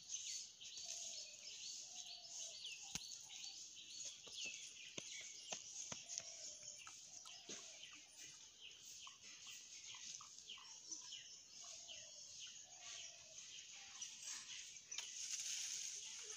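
Faint birdsong: many high chirps and twitters throughout, with short, slightly falling lower call notes repeating every second or so, and a few faint clicks.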